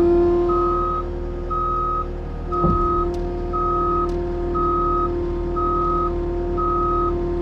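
Skid steer's backup alarm beeping about once a second as the machine reverses, over its diesel engine running steadily, with a single knock a little under three seconds in.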